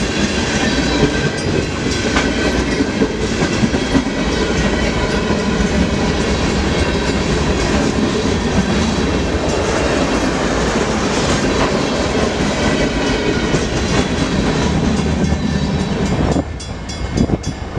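Freight train rolling past, a steady rumble of cars with wheels clicking over the rails. The noise drops suddenly near the end.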